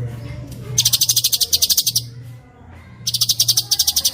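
A songbird singing a very fast rattling trill of rapid high chirps, in two bursts of about a second each with a short pause between: a 'rol speed' tutor song used to train songbirds.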